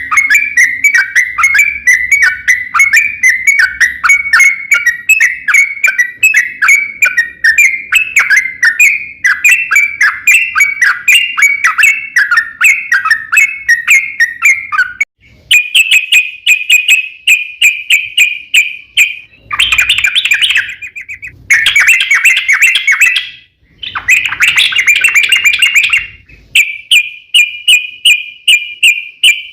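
A trucukan (yellow-vented bulbul) singing: a long run of rapid repeated notes, then shorter, faster trilled phrases with brief pauses between them.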